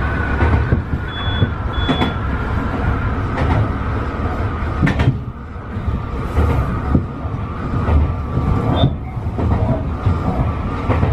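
Tobu 50090 series electric train running: a steady low rumble under a constant high whine, with repeated short clicks of the wheels over rail joints.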